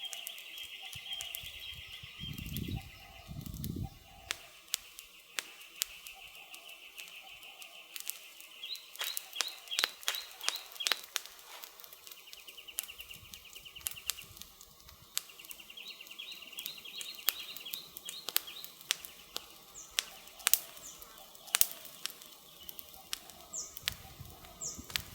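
Campfire crackling, with irregular sharp pops that come thickest about ten seconds in and again around twenty seconds. A steady high trill runs behind it in long stretches, and a few short falling bird chirps come near the end. Two low thuds sound about three seconds in.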